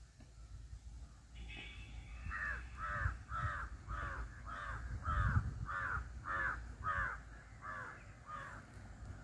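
A bird calling over and over, about two harsh arched calls a second for some six seconds, over a low rumble.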